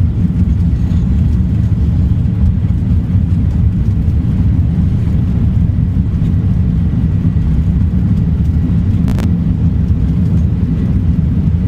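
Steady low rumble of a Boeing 747-400 on the runway, heard inside the cockpit. A single sharp click comes about nine seconds in.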